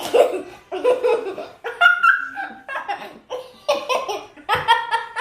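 Children laughing hard in a string of short bursts.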